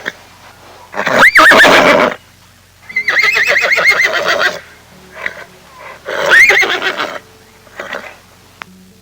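An animal calling: three loud calls with a quavering, wavering high pitch, about a second in, near the middle (the longest, about a second and a half) and about six seconds in, with two short weaker calls between and after.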